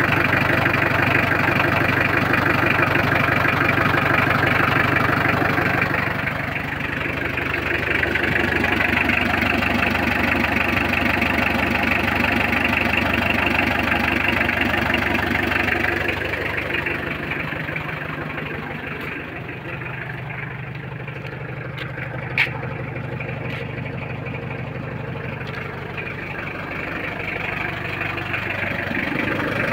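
Mitsubishi L300's 4D56 diesel engine idling steadily, just after a glow-plug-assisted start. It gets quieter about six seconds in and again about halfway through, and there is a single sharp click about three-quarters of the way in.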